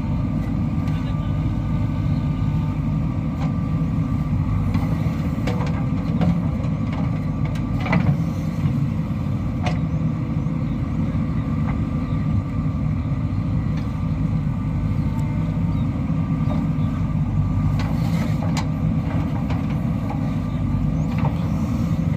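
Diesel engine of heavy earthmoving machinery running steadily under load, with a few sharp knocks and clanks, one louder about eight seconds in.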